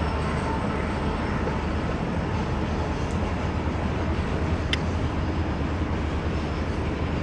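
Diesel-hauled train running over a railway bridge: a steady, even rumble with no break.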